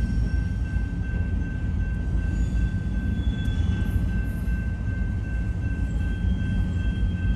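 Union Pacific double-stack container train's railcars rolling slowly through a grade crossing as the train is shoved in reverse: a steady low rumble, with a thin steady high-pitched tone held throughout.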